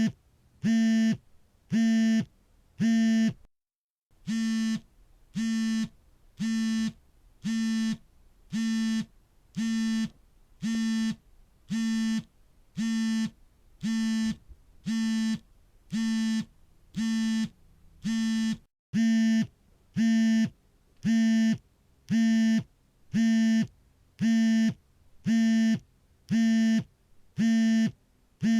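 Phone vibrating for an incoming call: its vibration motor buzzes in short, evenly spaced pulses, about one and a half a second, breaking off briefly twice.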